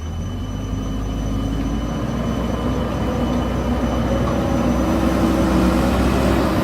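JCB backhoe loader's diesel engine running steadily, growing gradually louder, its pitch edging up after about four seconds.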